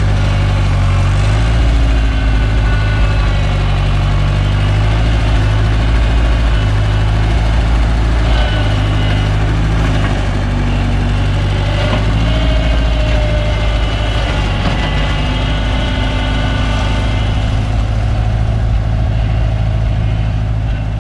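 New Holland L775 gasoline skid steer engine running steadily, with higher whining tones coming and going over the engine as the machine is worked.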